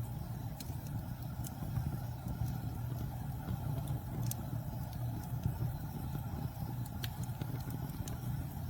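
Wood campfire burning: a steady low roar of flames with scattered sharp crackles and pops from the burning wood.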